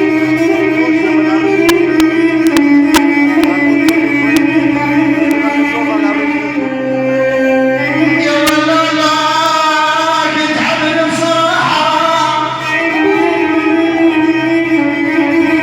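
Arabic folk mawwal singing with instrumental accompaniment: long held, wavering notes over a sustained instrumental backing, with a few sharp ticks in the first five seconds.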